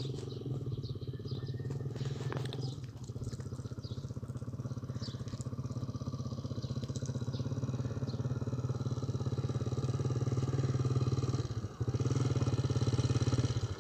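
A small engine, like a motorcycle's, running steadily at idle with a fast even beat, dipping briefly near the end. Faint short bird chirps sound over it in the first half.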